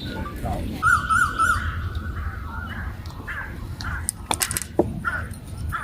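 A bird calling outdoors, with a wavering call about a second in and shorter calls after it. A few sharp clicks come near the end.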